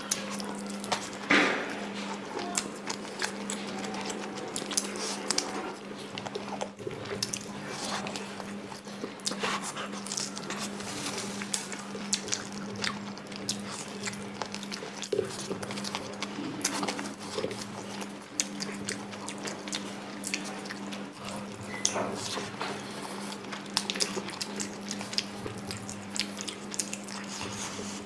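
A person chewing and lip-smacking while eating meat and rice by hand: many short wet mouth clicks and squishes, over a steady low hum.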